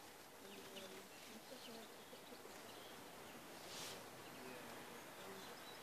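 Quiet outdoor ambience with faint, scattered chirps of small birds, and a brief soft rush of noise a little under four seconds in.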